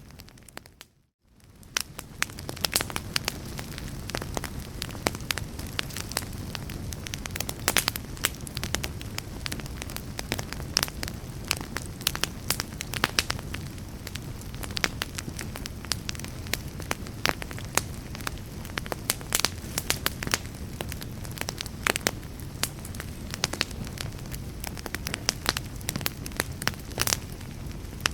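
Wood fire crackling, with many sharp pops and snaps over a steady low rumble. About a second in, the sound fades out almost to silence and swells back within a second.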